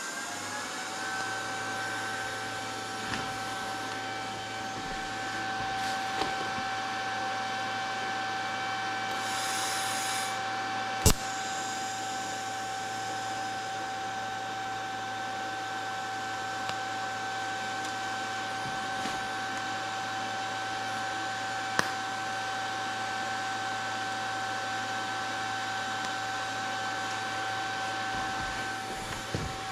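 TIG welding machine running with a steady whine and hum. Two sharp clicks stand out, about a third and two-thirds of the way through.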